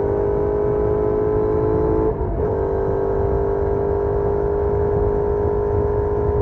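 Benelli Leoncino 800's parallel-twin engine through the stock exhaust, heard from onboard while riding. It runs under steady load, drops out briefly about two seconds in as for a gear change, then carries on at a slightly lower, steady pitch.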